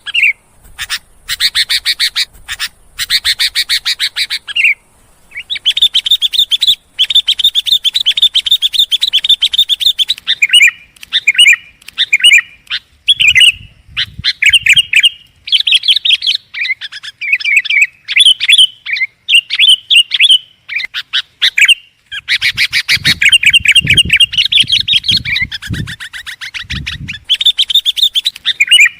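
Sooty-headed bulbul (kutilang) calling loudly and continuously in long runs of rapid, repeated chattering notes, broken by short pauses. This is the loud 'gacor' song used to lure other bulbuls.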